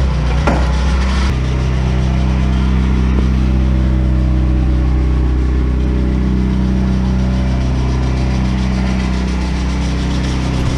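NA Mazda Miata's four-cylinder engine idling steadily through an exhaust with a decat test pipe in place of the catalytic converter, with a single click about half a second in.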